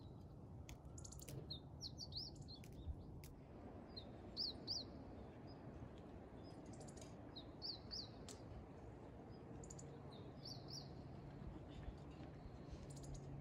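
Small birds chirping faintly: clusters of two or three quick high notes every two to three seconds, over a faint steady low hum.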